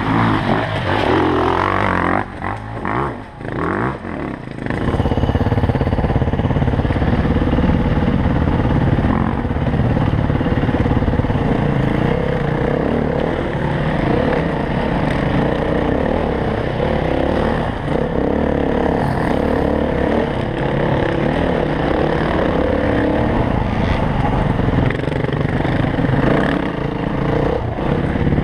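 Trail dirt bike engine pulling under throttle on a rocky trail, revs rising and falling, with the bike clattering over the ground. In the first few seconds the throttle is rolled on and off with short dips before the engine runs on steadily hard.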